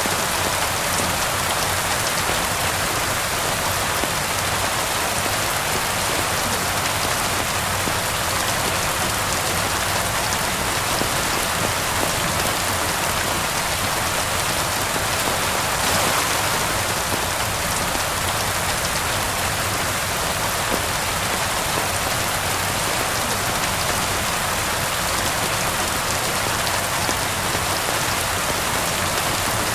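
Steady rain falling, a dense, even hiss of drops, with the crackle of a wood fire mixed in as faint scattered ticks.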